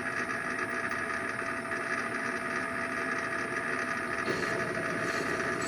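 Small hobby lathe running steadily: an even motor hum with a constant high whine.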